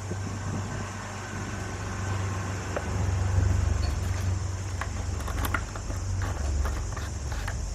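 A small 110cc Honda motorcycle engine running steadily, a little louder from about three seconds in, with light clicks and rattles in the second half.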